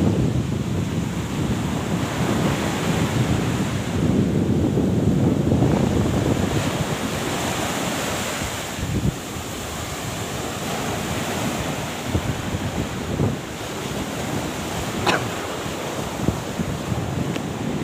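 Wind buffeting the microphone over the wash of surf, surging and easing, with one sharp tap about three-quarters of the way through.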